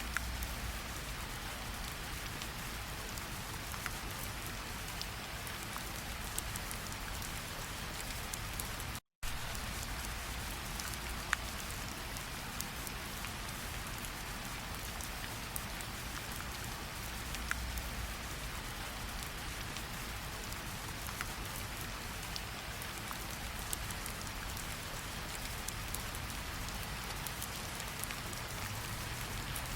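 Steady rainfall, with individual raindrops ticking sharply here and there. The sound cuts out completely for a split second about nine seconds in.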